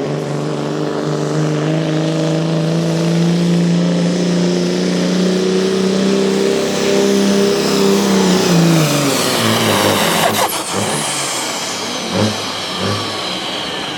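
A pulling vehicle's engine held at high revs under full load, then the throttle is let off about nine seconds in and the engine pitch falls away. High-pitched whines then fade downward, with a few sharp pops and knocks as the run ends.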